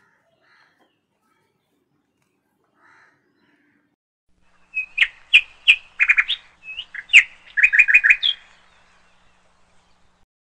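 A bird chirping: a quick run of short, sharp chirps in two bursts, starting about halfway in and ending after about four seconds.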